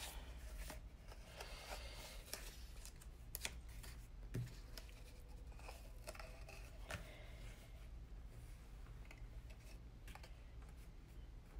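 Cardstock being handled and folded, rustling with scattered small clicks and taps; two sharper clicks about three and a half and four and a half seconds in.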